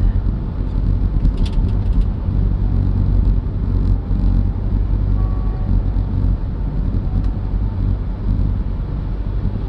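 A car driving, heard as a steady low road rumble with a few faint light ticks.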